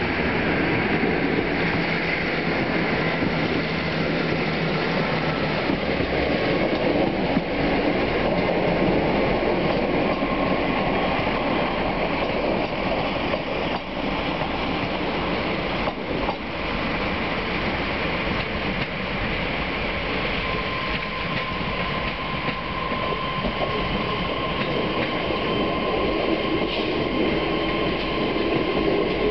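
Passenger trains rolling slowly over curved pointwork into a station, with a steady rumble of wheels on rail. In the last third a thin, steady wheel squeal from the curves comes in.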